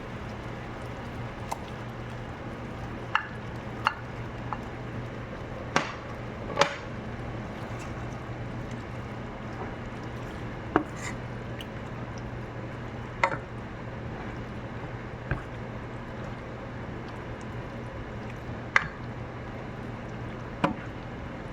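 About ten sharp clicks and knocks of kitchen utensils and cookware, irregularly spaced, over a steady low hum.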